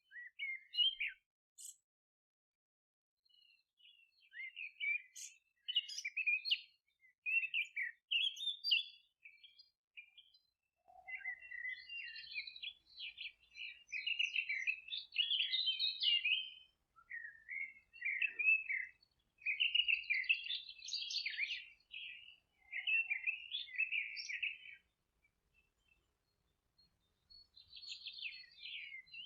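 Songbirds singing on a meadow: bursts of rapid chirps and trills, phrase after phrase, with a few short quiet gaps.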